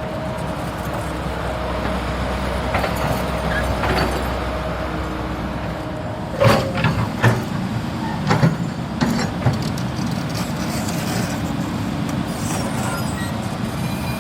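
A hydraulic excavator's diesel engine running steadily. About halfway through comes a cluster of several sharp knocks, the loudest sounds here.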